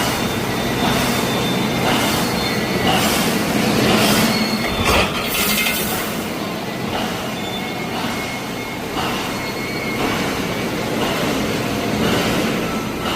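Automatic wire mesh welding machine running, with a regular stroke about once a second over a steady mechanical hum.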